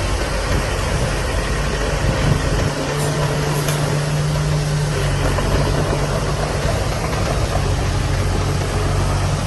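Heavy machine's diesel engine running steadily, its low note shifting about two and a half seconds in.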